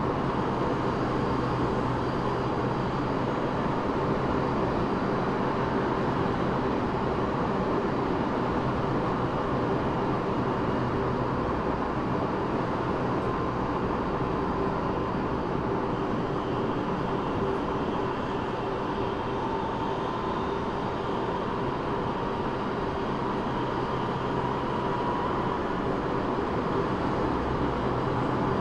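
Eidan 6000 series subway car running at speed, heard at floor level inside the car: steady wheel-on-rail rolling noise with a constant low hum and faint steady tones.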